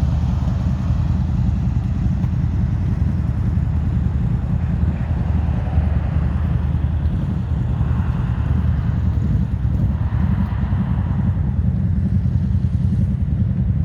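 KTM 690 Enduro R's single-cylinder engine idling steadily.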